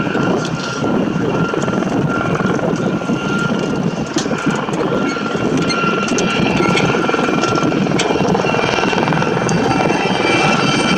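Aérospatiale Gazelle helicopter flying low past, its engine and rotor noise steady and loud. A thin high whine runs through it, and higher whines join about six seconds in.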